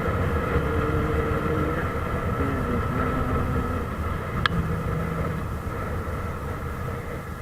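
Motorcycle engine running under way with road noise, holding a steady hum that slowly fades; a single sharp click comes about four and a half seconds in.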